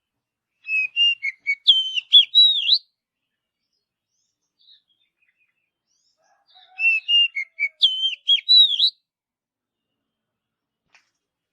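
Oriental magpie-robin (kacer) singing: two short phrases of varied, sliding whistled notes, each about two seconds long, with a pause of several seconds between them.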